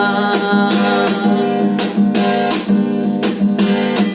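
Acoustic guitar strummed in a steady rhythm, about three strokes a second, ringing chords.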